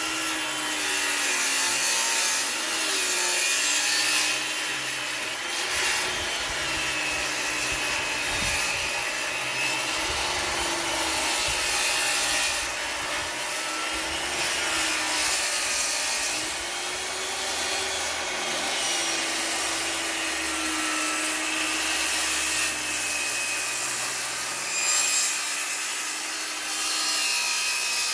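An electric power tool cutting wood without a break, its motor pitch sagging and recovering as the load on the blade changes.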